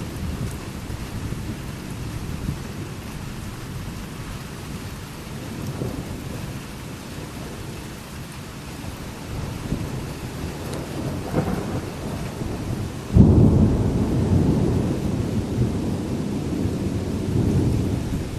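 Thunderstorm: rain falling steadily under low, rolling thunder. About 13 seconds in, a sudden loud thunderclap breaks, then rumbles on for several seconds.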